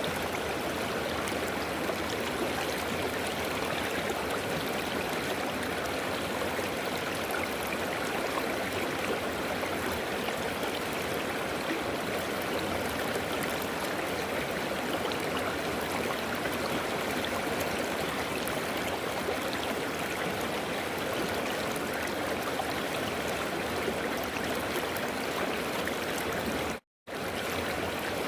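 A river running: steady rushing and gurgling water. The sound cuts out completely for an instant near the end, then resumes.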